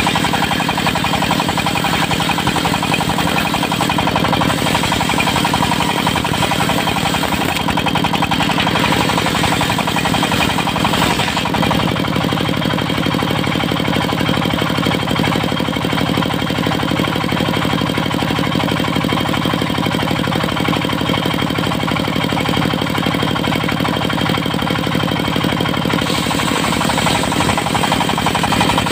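Diesel engine of a mobile circular sawmill running steadily with a rapid knocking beat; its tone shifts about 11 seconds in.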